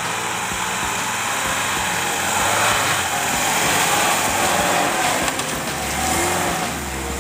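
Steady rushing and scraping noise of sliding fast down a snow slope, with wind on the microphone, over an instrumental stretch of a rock song.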